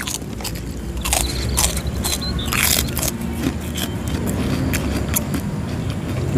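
Close-up eating sounds: biting into and chewing pieces of a jumbo bakso meatball dish, many short mouth clicks over a steady low hum.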